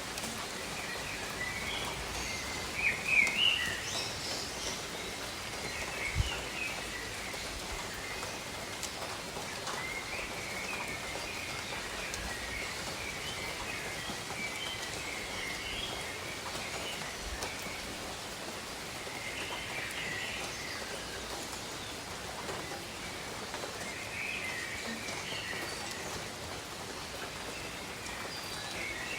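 Steady rain falling over tropical forest, with birds chirping and calling on and off throughout, loudest about three seconds in. There is a single short knock about six seconds in.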